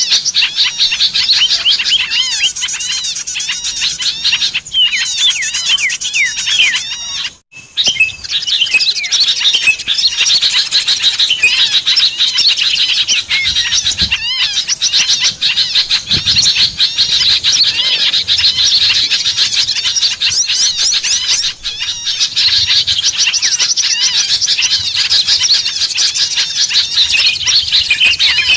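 Dense, unbroken chorus of many small songbirds chirping and twittering high-pitched, the kind of recording played as a lure call to draw small birds in. The sound cuts out abruptly for a moment about seven and a half seconds in.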